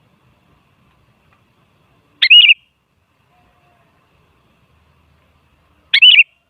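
Sooty-headed bulbul (kutilang) giving two short, quick warbled call phrases, about three and a half seconds apart.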